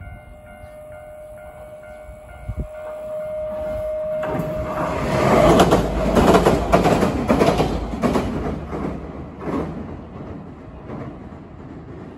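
Nankai 7100-series electric train passing overhead on a steel plate-girder railway bridge. The rumble builds about four seconds in, is loudest with a run of rhythmic wheel clatter over the girders for a few seconds, then fades away.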